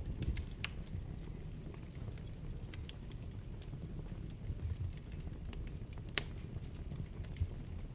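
Wood fire burning in a fireplace: a low steady rumble of flames with scattered sharp crackles and pops, the loudest pop about six seconds in.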